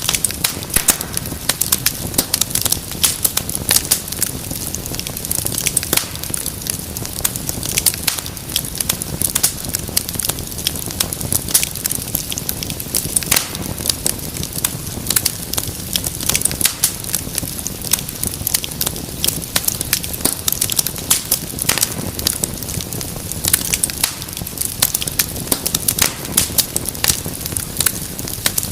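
Wood fire burning in a fireplace, with many sharp pops and crackles over a steady low rumble of the flames.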